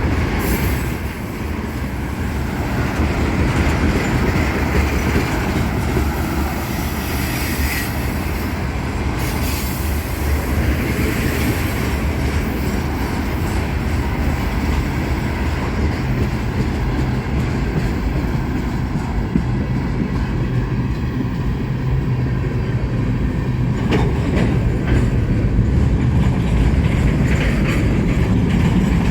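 Diesel-hauled freight train moving along the track: a steady locomotive engine hum under the rumble and clacking of rail car wheels, with a few sharp knocks.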